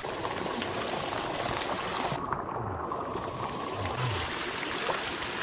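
Water pouring and trickling steadily into a hot spring pool, as from an inflow pipe and a small waterfall. The hiss turns duller for a moment in the middle.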